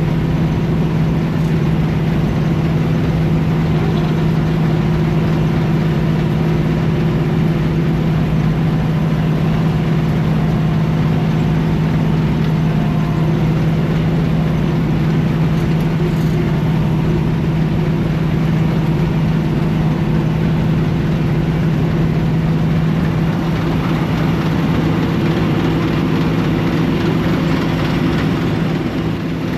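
Heavy engine running steadily with a constant low hum, with a little more hiss in the upper range during the last few seconds.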